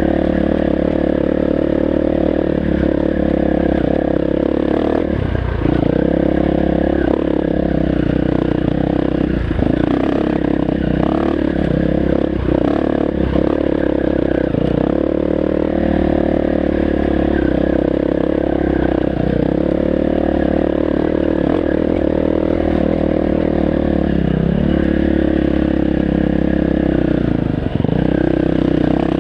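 Dirt bike engine running steadily under throttle on a rough trail, its note dipping briefly several times as the throttle is rolled off and back on.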